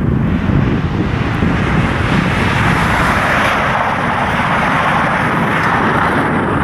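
Train passing at speed: a loud, steady rush of wheels on rail and air, swelling towards the middle.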